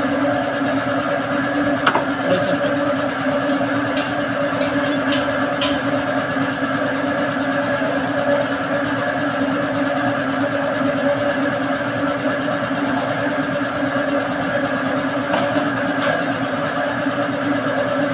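An engine running steadily, with a cluster of short sharp clicks about four to six seconds in.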